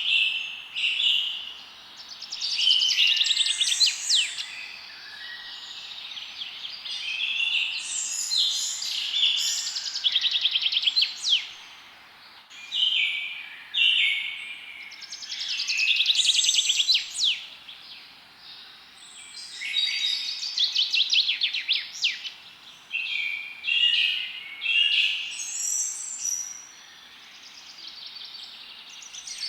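Several songbirds singing and chirping together, overlapping trills and quick whistled phrases one after another, over a faint steady hiss.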